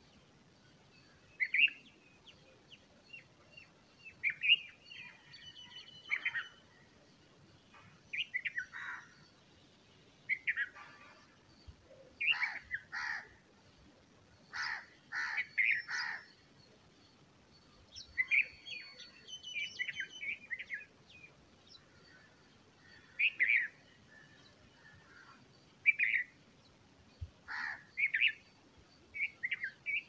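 Songbirds chirping, short calls every second or two, with a run of louder, harsher calls around the middle.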